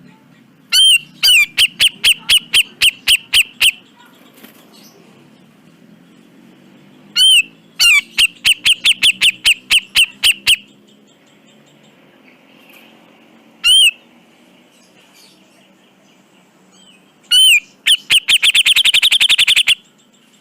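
Grey-cheeked bulbul (cucak jenggot) calling in four loud bouts. Each bout opens with an arched note and runs into a quick series of sharp repeated notes, about four a second. The third bout is a single note, and the last speeds up into a rapid rattle near the end.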